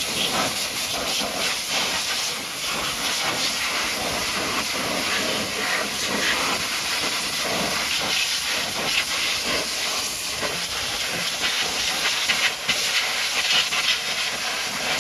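High-pressure washer jet spraying onto a mud-caked truck: a continuous hiss that swells and dips as the spray moves across the surface.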